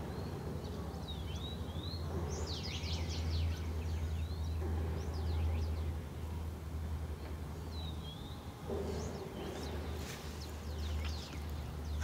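Small birds chirping in short curved calls and quick runs of high notes, over a steady low rumble of background noise.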